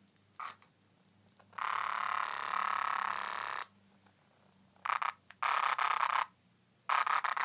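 Cicada buzzing: one long, even buzz of about two seconds, then three shorter bursts of buzzing near the end.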